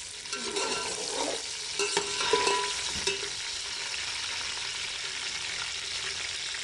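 Chicken pieces and onions frying in hot ghee in an aluminium pot, sizzling steadily while a metal slotted spoon stirs them, with a few knocks and scrapes of the spoon against the pot in the first three seconds.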